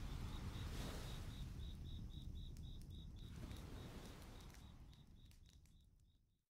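Campfire ambience: a cricket chirping steadily at about four chirps a second over a low rumble, with scattered crackles from the fire. It all fades out near the end.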